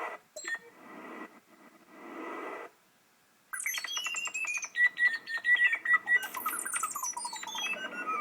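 SimpleSynth software synthesizer playing EEG-driven MIDI: soft swells of synthesized wind in the first few seconds, a brief silence, then a rapid flurry of synthesized bird chirps gliding up and down in pitch over a steady high tone.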